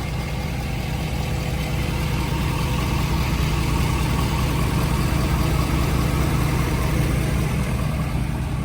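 Ford 6.7-litre Power Stroke V8 turbodiesel idling steadily.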